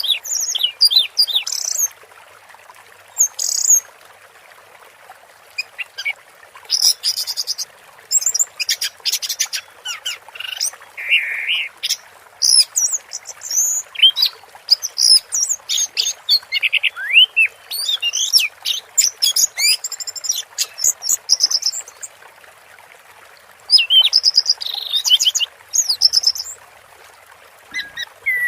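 Orange-headed thrush singing: rapid, varied high-pitched song phrases broken by short pauses.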